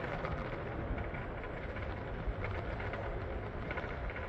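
PATH train running: a steady rumble and rail noise.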